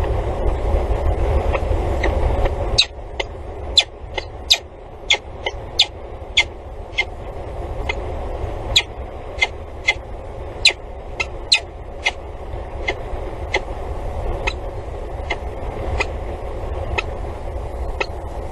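Steady low rumble of distant road traffic. From about three seconds in, when the rumble eases a little, a string of sharp, irregular ticks comes roughly twice a second.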